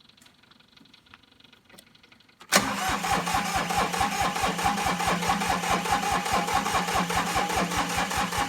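Massey Ferguson 1710 compact tractor's diesel engine on a cold start: near quiet with a few faint clicks, then about two and a half seconds in it starts suddenly and runs with a fast, even beat.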